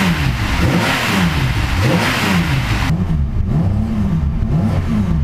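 Datsun 240Z's Rebello-built inline-six race engine, still cold, blipped repeatedly: engine speed rises and falls several times in quick succession, revving freely on its very light flywheel, with the lumpy sound of a big wild cam. The first three seconds are the harshest, before the blips ease off.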